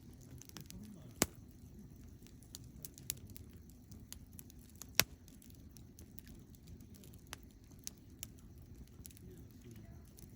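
Wood campfire crackling: many small irregular clicks and two sharp loud pops, one about a second in and one about five seconds in, over a low steady rumble.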